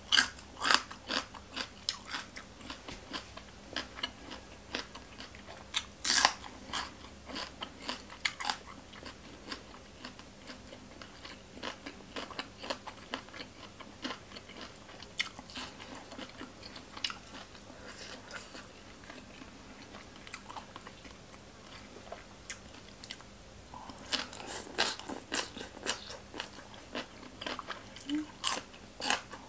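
Close-miked eating: crisp crunches and wet chewing of green papaya salad, boiled pork offal and raw vegetables. The bites come thick in the first several seconds and again near the end, sparser in between.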